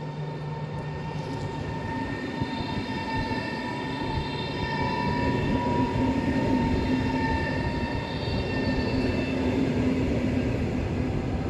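Train running through a station, a steady rumble that grows louder, with a high whine held over it.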